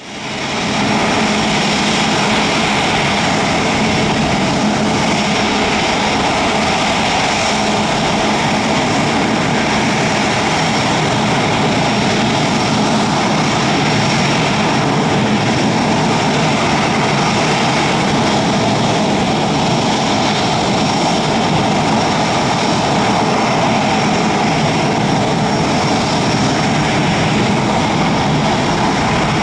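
Airbus A350 jet airliner running steadily: a constant jet whine over a broad rush of engine noise.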